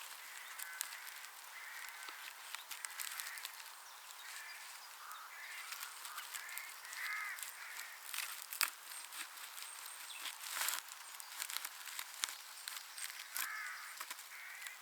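Birds calling over and over in short, curving calls, with scattered sharp crackling clicks throughout and two louder clicks about two-thirds of the way in.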